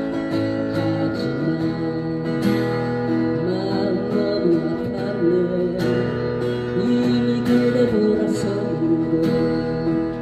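Acoustic guitar strummed in a steady rhythm, with a man singing a slow ballad over it.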